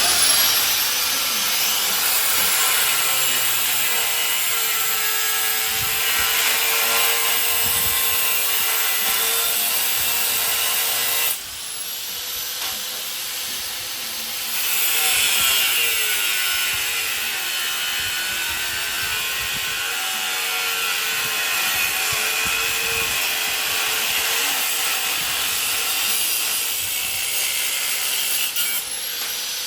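Angle grinder grinding steel, its motor whine sagging in pitch as it is pressed into the work and recovering, with a brief let-up about eleven seconds in before it carries on.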